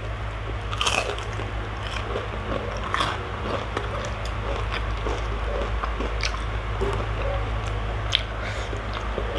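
Close-up crunching and chewing of a crispy deep-fried okoy shrimp fritter, with sharp crackles from the fried crust at each bite, the loudest about four of them spread through.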